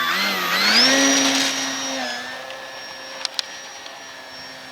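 Brushless electric motor and propeller of an FMS PA-18 Super Cub RC plane throttling up to a rising whine for takeoff. It then holds a steady pitch, and about two seconds in it drops slightly in pitch and grows quieter.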